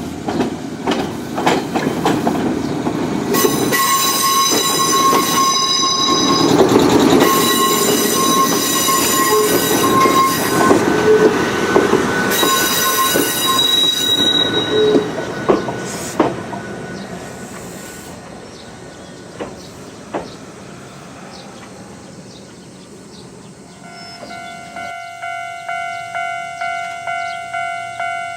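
An Ichibata Electric Railway 2100 series electric train running past with wheel clatter over the rail joints and three long high-pitched tones, then fading away. About 25 seconds in, a level-crossing warning bell starts ringing at about two strokes a second.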